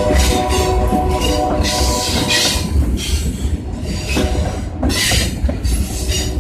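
Train cars rolling past with a steady low rumble, their wheels squealing on the rails in high-pitched bursts that come and go.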